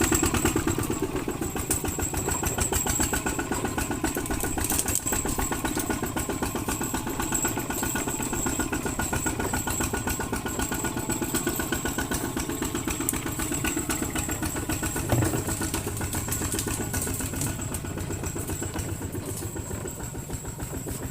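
Kubota ZT155 single-cylinder diesel engine running steadily with a rapid, even chug of firing pulses, growing slightly fainter toward the end. A brief knock sounds about fifteen seconds in.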